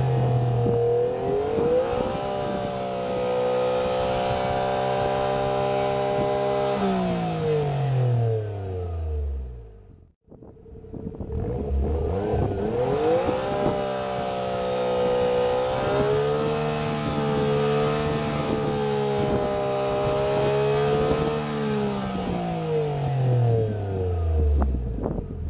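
Suzuki Cappuccino's turbocharged F6A three-cylinder engine through a pupa Euro muffler, held at steady high revs and then falling back. This happens twice: the revs fall from about 7 s in and again from about 22 s in, with a brief sharp drop in sound about 10 s in.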